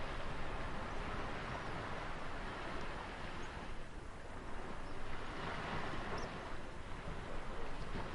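Ocean surf breaking and washing in a steady rush of noise. The waves ease off around the middle and swell again a little past halfway.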